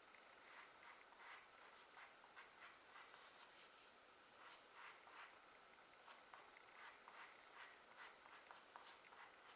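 Charcoal pencil scratching faintly on drawing paper in quick short strokes, several a second, as small tree branches are sketched.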